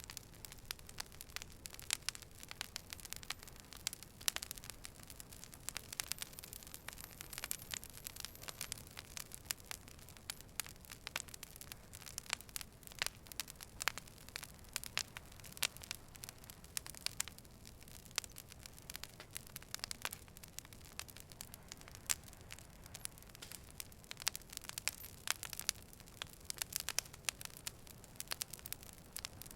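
Fire burning and crackling, with frequent irregular sharp pops and snaps over a soft low rush.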